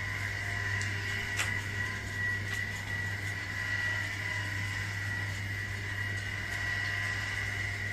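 A small machine running steadily: a constant high-pitched whine over a low hum, with one sharp click about one and a half seconds in.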